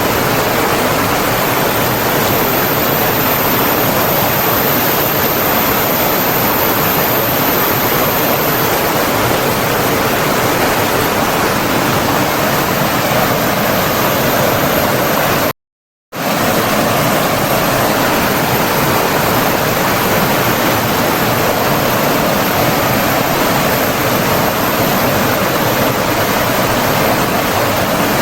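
Steady rush of flowing water, as from a stream or waterfall, with a brief cut to silence about halfway through.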